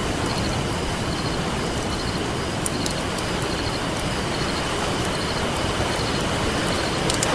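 Ocean surf rushing steadily, with a campfire crackling over it in a few sharp pops, the clearest nearly three seconds in and near the end.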